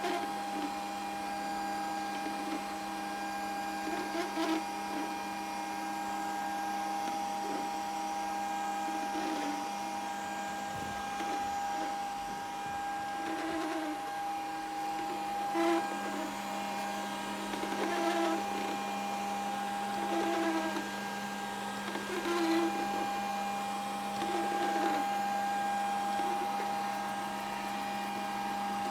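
Grundig VCR 2131 robot vacuum running with a steady motor hum, with short knocks or scrapes every couple of seconds.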